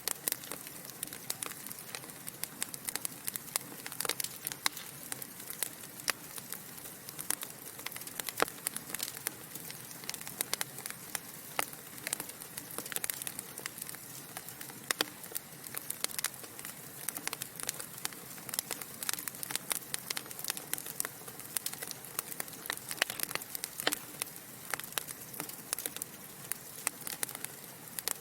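Wood fire burning in a fireplace: a steady soft hiss with frequent irregular sharp crackles and pops from the burning logs.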